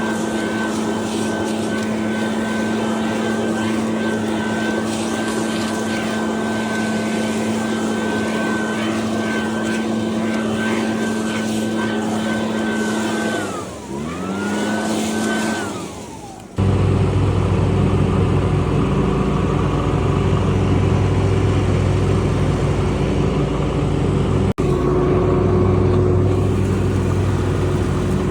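Two-stroke backpack leaf blower running at full throttle with a steady high whine, throttled down and back up about halfway through. About two-thirds of the way in, the sound cuts abruptly to a lower-pitched engine drone with heavy wind-like rumble.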